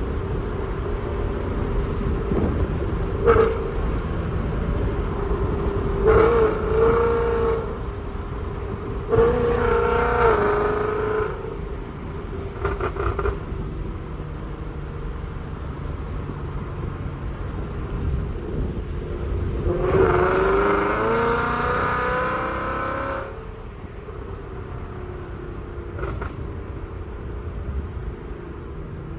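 Ford Mustang GT's 5.0 V8, fitted with long-tube headers and a Corsa Xtreme exhaust, on the move with a steady low drone. It opens up into several hard accelerations, about six and nine seconds in and a longer pull around twenty seconds in, each a rising engine note.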